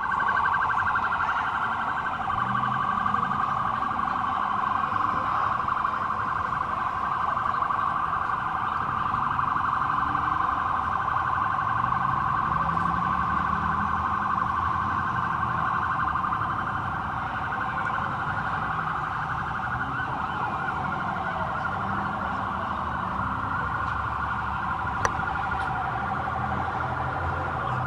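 Emergency vehicle sirens sounding continuously as one steady, high, rapidly pulsing tone, with one sharp click near the end.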